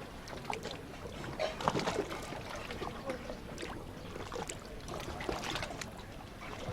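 Sea water lapping and splashing, with many small irregular splashes and ticks.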